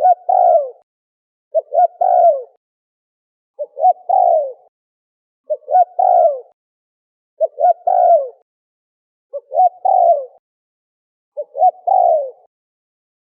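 Spotted dove (terkukur) cooing: seven identical phrases, one about every two seconds, each a short note or two followed by a longer falling coo, with complete silence between them, as in a looped recording.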